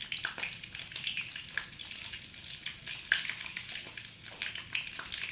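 Sausages frying in hot oil in a pan: a steady sizzle with frequent sharp pops and crackles of spitting oil, the loudest pop about three seconds in.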